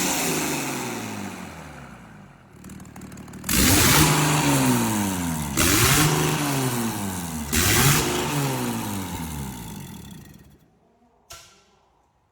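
A 500 hp car engine revved in three sharp blips about two seconds apart, each climbing quickly and falling back, after revs falling from an earlier blip. The sound dies away near the end, with one short click after it.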